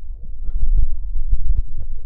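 Footsteps and handling noise as the person filming walks up through brush: heavy low thumps on the microphone, with crackling clicks of twigs and vegetation.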